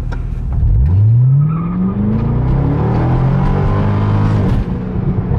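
A 2007 Corvette C6's 6.0-litre LS2 V8 at full throttle from a rolling launch, heard inside the cabin. The engine note jumps up under load about a second in and climbs steadily in pitch, then drops at an upshift of the automatic near the end. The rear tyres spin on the launch.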